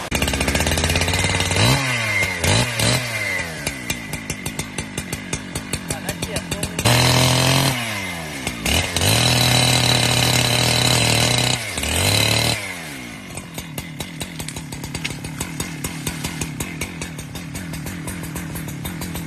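Chainsaw engine revved up and down several times, held at high revs for a few seconds in the middle, then dropping to a steady idle.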